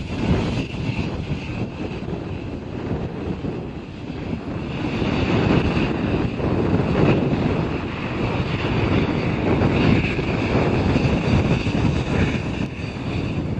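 Jet airliner engines running loud: a deep rumble with a steady whine above it. The noise swells about five seconds in and then holds.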